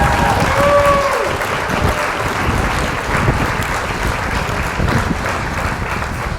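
Wind in a snow storm rushing over the microphone as a steady, loud noise, with a few thin whistling tones in about the first second, one gliding down.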